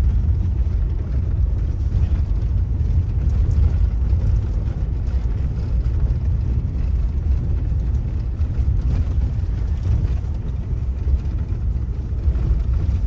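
Steady low rumble of road and engine noise heard inside a car driving slowly over a rough, stony unpaved road.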